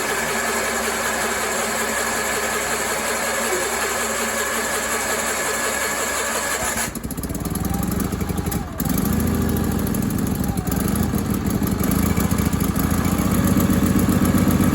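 Onan engine of a Sears Suburban garden tractor being cranked by its electric starter for about seven seconds, then catching and running, faltering once briefly before settling. It is a cold start after about two months unused, and the engine wants a little more choke.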